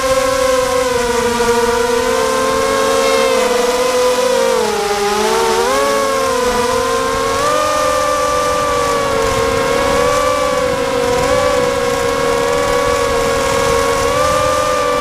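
Quadcopter's electric motors and propellers whining steadily, the pitch wavering as the throttle changes, dipping about four seconds in and climbing back a couple of seconds later. Wind buffets the microphone underneath.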